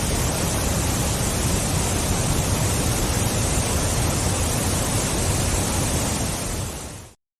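Waterfall rushing: a steady, full roar of falling water that fades out near the end.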